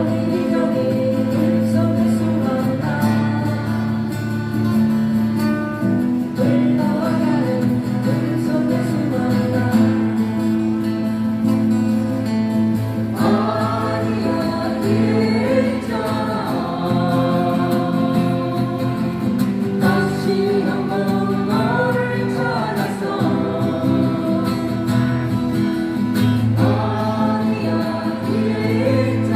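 Live acoustic-guitar band music: strummed acoustic guitars under a sung melody, amplified through a PA system.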